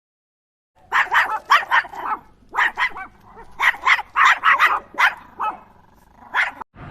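A dog barking over and over in quick runs of sharp barks, starting about a second in, with short pauses between the runs.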